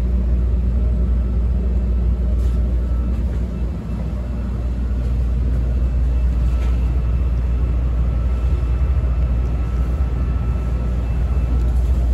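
Interior sound of a CTA 5000-series rapid-transit railcar pulling out of a station and gathering speed: a steady heavy rumble of wheels and running gear, with a faint steady whine joining about halfway through.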